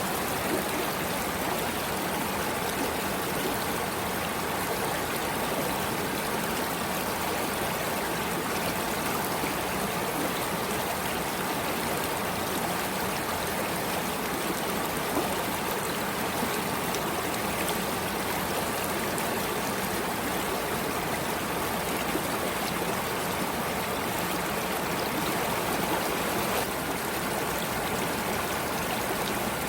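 Water flowing in a stream, a steady, unbroken rush with no pauses or changes.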